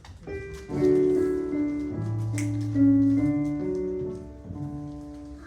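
Piano playing a short slow introduction of held notes and chords, leading into a sung song.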